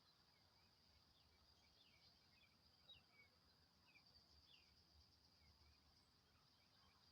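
Faint outdoor ambience: a steady high insect drone with scattered short bird chirps, one a little louder about three seconds in.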